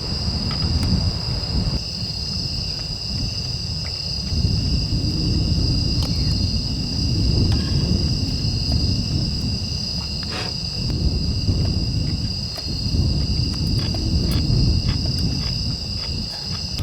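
Insects, crickets, trilling steadily and high-pitched over a low rumbling wash of seaside wind and waves that swells and fades every few seconds.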